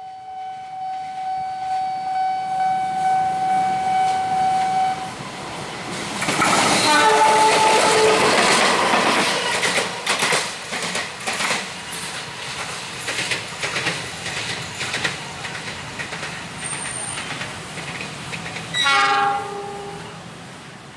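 Train horn sounding one long steady blast, then further horn notes as the train passes close, loud, with the wheels clacking over the rail joints. A short horn blast comes near the end.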